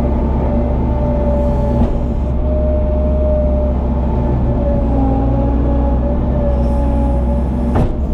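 Engine of a farm loader running steadily under work, with a whine that wavers slightly in pitch over the rumble. A single sharp click comes near the end.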